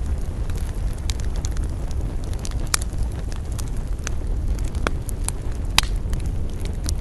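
Wood campfire crackling, with irregular sharp pops and snaps, two louder ones about three and six seconds in, over a steady low rumble.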